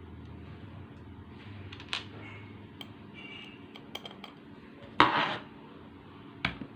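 Metal tools clinking and clanking against a fogging machine's parts while its bolts are tightened: scattered light clicks, a louder clank about five seconds in and another near the end.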